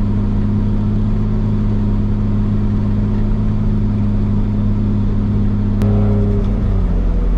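Toyota 1JZ inline-six in a Nissan 240SX, heard from inside the stripped cabin, giving a steady drone while cruising. A sharp click comes a little before six seconds in, after which the engine note changes and falls away near the end.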